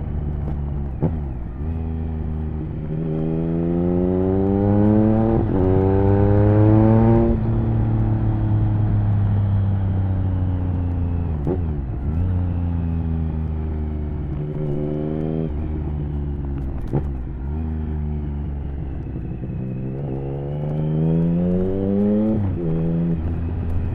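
A 2007 Triumph Speed Triple 1050's inline three-cylinder engine is heard from the saddle through an HP Corse Hydroform exhaust with dB killer. It pulls hard up through the revs three times, with brief dips in pitch at gear changes, and the revs fall away between the pulls.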